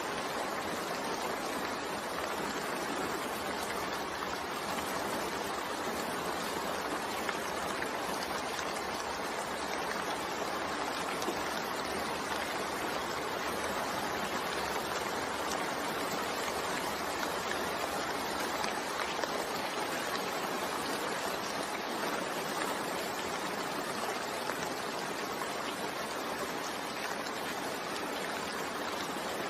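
Steady rainfall, an even continuous hiss of rain with no single drops or thunder standing out.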